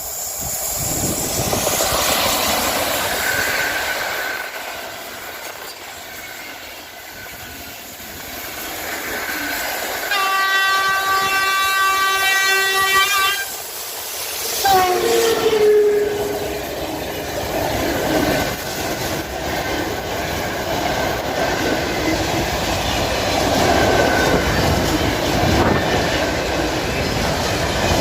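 Train running through a station, with steady wheel and rail noise. About ten seconds in, a locomotive horn sounds one long blast of roughly three seconds. It is followed by a short, lower horn note that falls in pitch.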